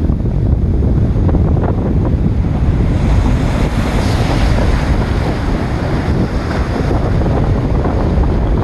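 Strong wind buffeting the microphone with a heavy low rumble, over surf breaking against a rock jetty; a hiss of breaking water swells about three to five seconds in.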